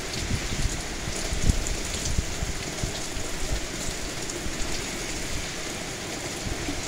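Heavy wind-driven hurricane rain falling and splattering steadily, with occasional soft low thumps.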